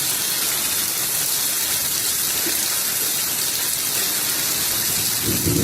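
Steady rushing water noise, with a deeper rumble coming in near the end.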